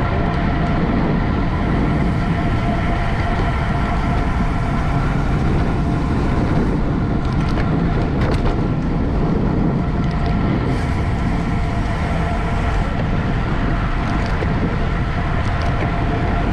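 Wind rushing over the microphone of a camera riding along in a bicycle race, a steady low rumble with a faint steady whine underneath and a few light clicks about halfway through.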